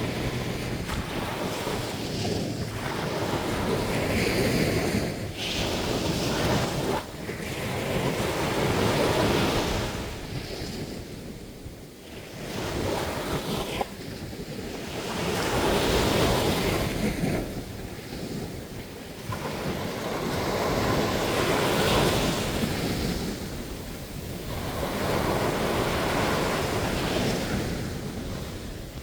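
Sea waves breaking and washing up on a sandy beach, swelling and ebbing every few seconds, with wind on the microphone.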